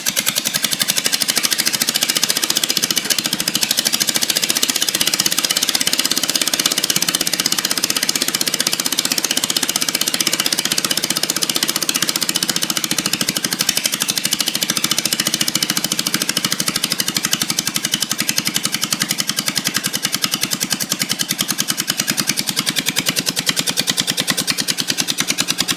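Kohler K301 single-cylinder engine on a Cub Cadet 122 garden tractor running steadily with no muffler, only an exhaust elbow, so each firing comes out as a sharp, loud bark in a rapid, even rhythm.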